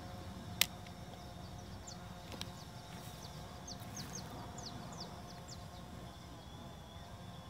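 A bird calling, a run of about ten short, high, falling chirps, over a steady low hum. A single sharp click comes just after the start.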